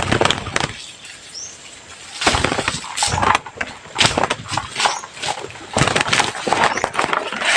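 A bird's wings flapping hard in repeated bursts, a struggling bird beating its wings.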